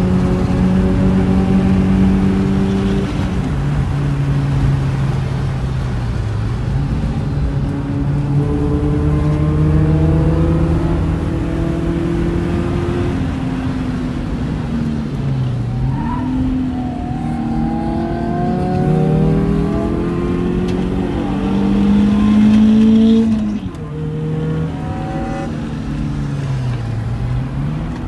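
BMW M42 1.8-litre four-cylinder engine heard from inside the cabin on track, pitch climbing as it accelerates and dropping sharply at gear changes and lifts, several times over. It is loudest around 22 seconds in, just before a lift-off.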